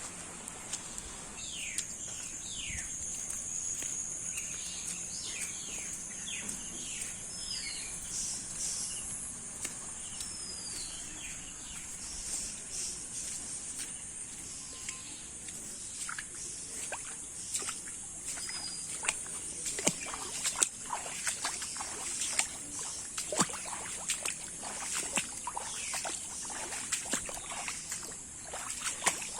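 Outdoor rural ambience over floodwater: a steady high-pitched buzz with short falling bird chirps in the first third. From about halfway on come scattered sharp clicks and knocks.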